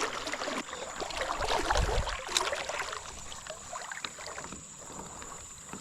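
Creek water moving around a kayak, with small splashes and knocks. A short low rumble of wind on the microphone comes between one and two seconds in, and there is a single sharp click a little after.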